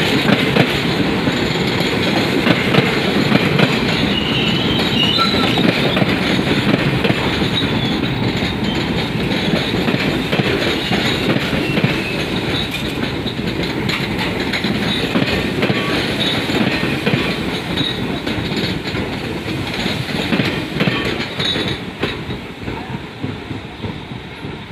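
A train running past on the rails, its wheels clattering with faint squeals, loud at first and dying away slowly over the second half.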